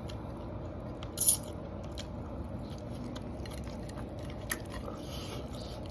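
Close-miked eating: one loud bite about a second in, then a few small mouth clicks and chewing over a steady low background hum.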